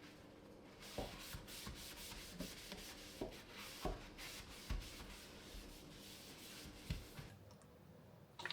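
A surface being scrubbed by hand: a run of quiet rubbing strokes with a few light knocks, stopping about seven seconds in.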